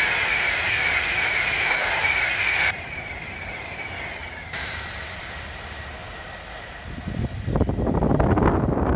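Electric passenger train passing, with a high whine that falls slightly in pitch. The sound drops off abruptly about three seconds in, and a loud rushing, clattering noise builds near the end.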